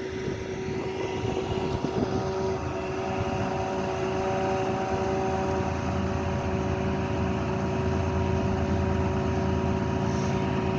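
Steady engine drone holding one pitch over a low rumble that grows a little louder about halfway through.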